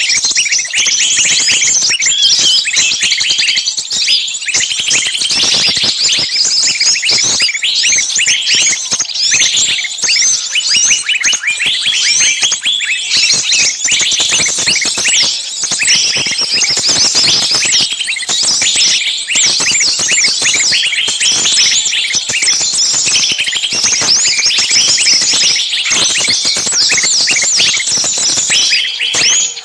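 A dense, continuous chorus of many small birds chirping at once, with high overlapping chirps and short whistles.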